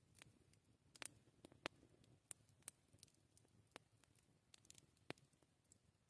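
Campfire crackling: irregular sharp pops and snaps of burning wood, about a dozen, the loudest about a second in, over a faint low rumble.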